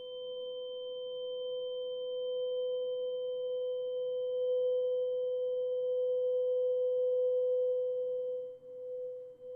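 A single steady ringing tone, pitched around 500 Hz with fainter higher overtones, swelling slowly in loudness and dipping briefly near the end.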